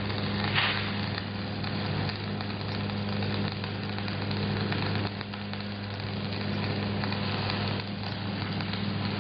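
Stick welding (shielded metal arc welding): the electrode's arc crackling and sizzling steadily, with small flare-ups, over a steady low hum.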